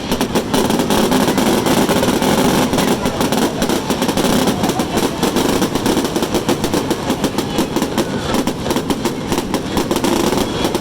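Fireworks going off in a loud, unbroken string of rapid bangs and crackles, many reports a second.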